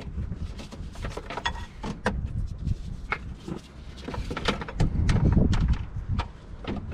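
Hand tools and a socket clinking and knocking against metal parts in irregular sharp clicks, over low rumbling handling noise that grows louder in the second half.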